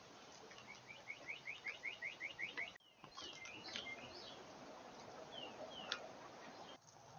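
Small songbirds calling: a quick series of about a dozen rising notes that grows louder over two seconds, then scattered chirps and two short falling whistles. A single sharp click near the end.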